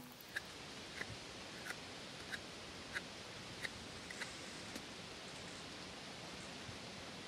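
Outdoor woodland ambience: a steady, faint rustling hiss, with a regular series of short, sharp ticks about every two-thirds of a second that stop after about five seconds.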